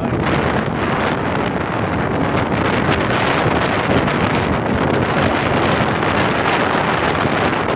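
Strong wind blowing across the microphone: a loud, steady rushing that buffets the mic.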